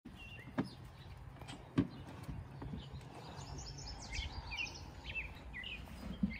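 A small bird chirping a quick run of high notes about halfway through, over steady outdoor background noise. Two sharp knocks in the first two seconds, as goats nose into a plastic bucket of scraps.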